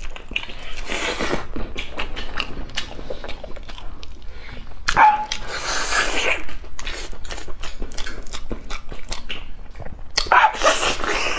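Close-miked wet chewing and lip-smacking as a man gnaws braised beef off the bone, full of quick sharp mouth clicks. Three louder hissing rushes of breath and sucking come about a second in, around five seconds in and near the end.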